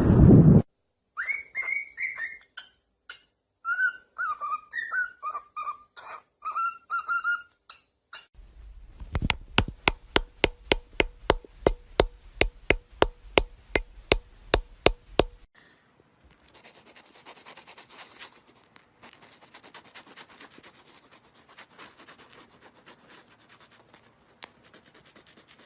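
A parrot's short whistled chirps and calls, rising and falling, for several seconds. They are followed by a steady series of about twenty sharp clicks, roughly three a second, and then faint scratching.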